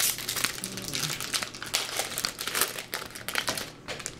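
Crinkling of a trading-card pack wrapper being handled, a dense, steady run of small crackles.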